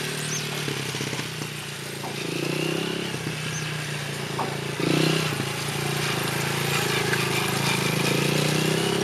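Motorcycle being ridden, its motor note and a high whine rising and falling as the throttle changes, with a louder swell about halfway through.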